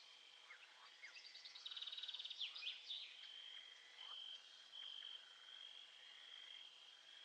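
Faint nature ambience: a steady high-pitched drone with short breaks, with a rapid trill and a few quick bird-like chirps about two seconds in.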